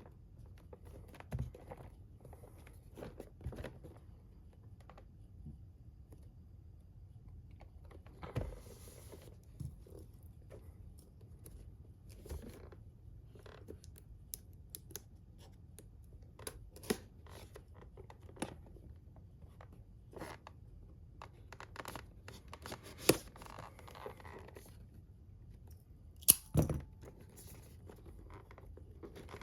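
Unboxing noises from an anime figure's box and plastic packaging: scattered small clicks, scrapes and short rustles, with two sharper snaps late on.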